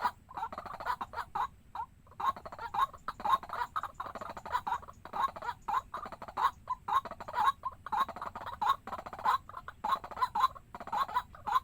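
Waterhen calling: short notes around 1 kHz repeated in a steady series, about two to three a second.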